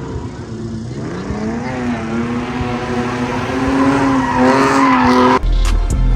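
Muscle car's V8 engine revving up and held at high revs while the car slides, with tyre squeal. About five and a half seconds in it cuts off abruptly into music with heavy bass.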